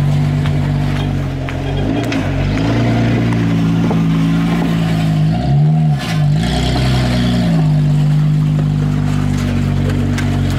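Holden Commodore V6 held at high revs through a burnout, with the rear tyres spinning in smoke. The revs dip and climb back about two seconds in, and again around six seconds in.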